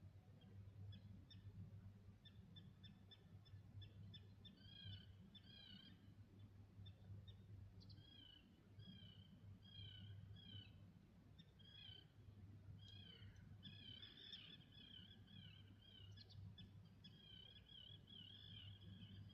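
Faint birdsong: quick series of short high chirps and slurred warbling notes from small birds, busier in the second half, over a low steady hum.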